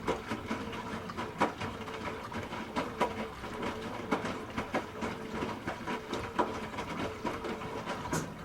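Hoover H-Wash 300 Plus washing machine running, with a steady motor hum and a string of irregular clicks and knocks several times a second.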